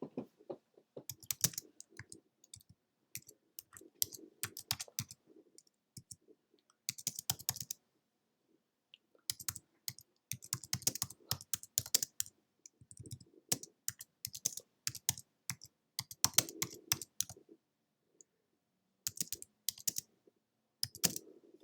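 Irregular runs of sharp clicks and taps, coming in clusters with short gaps between them.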